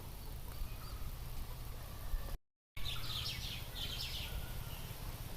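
Birds chirping in short repeated calls over a steady low background rumble. The sound cuts out completely for a moment a little before halfway, and the chirps are clearest after that.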